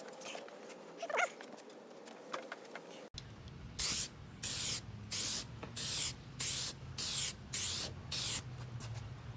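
A short rising squeak about a second in; then, after a cut, a spray bottle of headlight-restoration product squirts eight quick hissing bursts, about one every two-thirds of a second.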